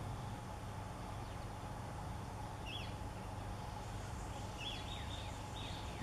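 A few faint short bird chirps, about three seconds in and again around five seconds in, over a steady low outdoor rumble.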